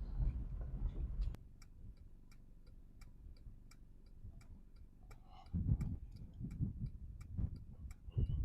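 Steady mechanical ticking, about two ticks a second. A low rumble stops about a second in, and dull low thuds come in from about halfway.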